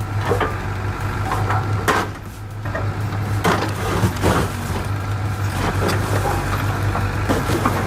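A machine engine hums steadily under repeated sharp cracking and crunching impacts.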